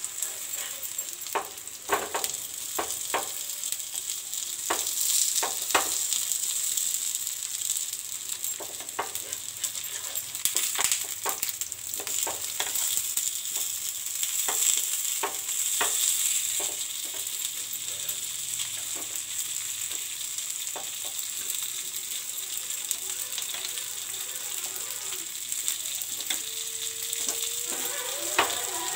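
Bamboo-shoot fritters sizzling in shallow oil on a tawa, a steady hiss broken by frequent sharp clicks and scrapes as a steel spatula turns them.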